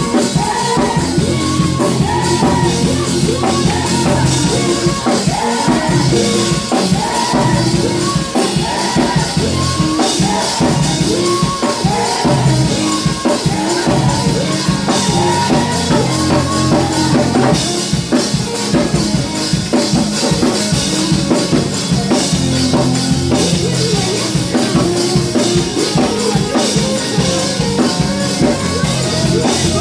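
Live gospel praise and worship music with a drum kit and bass, and voices singing along.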